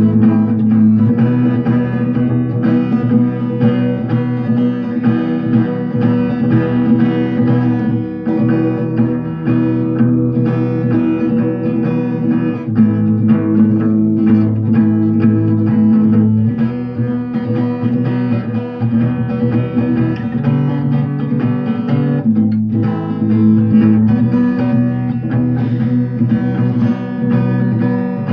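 Acoustic guitar strummed with the percussive 'knock' technique: chords ringing under a continuous rhythm of sharp muted strikes on the strings.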